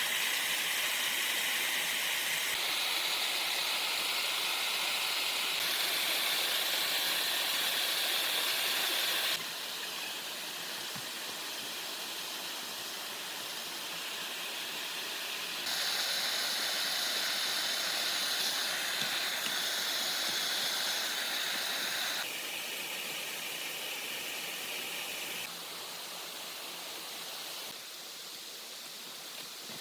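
Steady outdoor hissing noise, strongest high up. Its level and pitch jump abruptly every few seconds, getting quieter toward the end.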